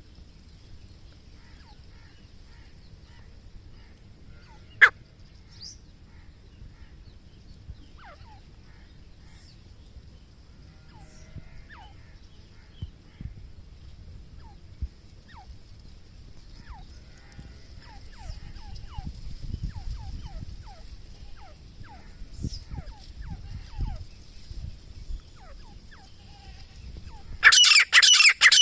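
Faint, scattered bird calls of short falling notes over a steady high thin hiss and some low rumble, with a sharp click about five seconds in. About a second before the end, a grey francolin starts its loud, rapidly repeated call.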